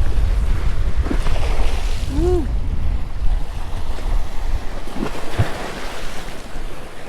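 Strong wind buffeting the microphone over waves washing in, with a short rising-and-falling tone about two seconds in.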